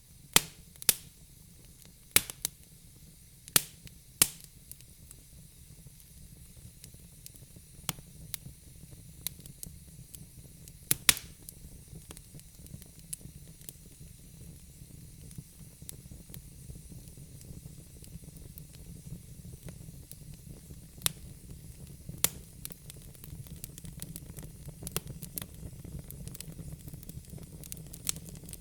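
Wood fire burning in a fireplace: sharp crackles and pops from the logs, bunched in the first few seconds, one loud pop about eleven seconds in and more near twenty-two seconds, over a steady low rumble of the flames and a faint hiss.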